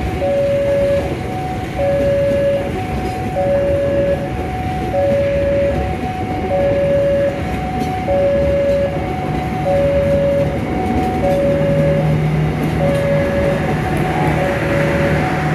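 Passenger train coaches rumbling past over the rails at a level crossing while the crossing alarm sounds a repeating two-tone electronic ding-dong, a low and a higher tone alternating, the pair repeating about every one and a half seconds.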